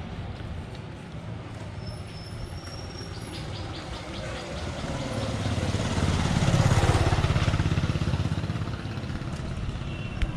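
Road traffic: a motor vehicle's engine rumble that swells as it passes, loudest about seven seconds in, then fades.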